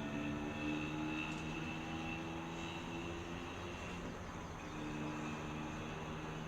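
Distant engine drone: several steady tones under a constant hiss, easing off slightly midway and then coming back.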